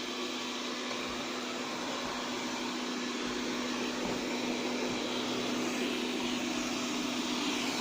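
Xiaomi Mi Robot Vacuum-Mop P running in vacuum-and-mop mode: a steady whir of its suction fan with a steady low hum.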